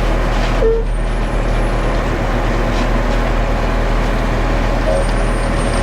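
Concrete mixer truck running steadily with its drum turning as it pours out concrete. Two short high tones sound, about a second in and again near the end.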